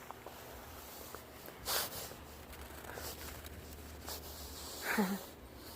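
Snow being scooped up by hand: a soft crunch and rustle of snow about two seconds in, with faint handling noises. There is a short hum-like voice sound from the person near the end.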